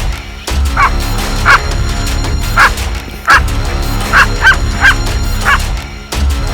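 Eight short, high canine yips spread over about five seconds, over background music.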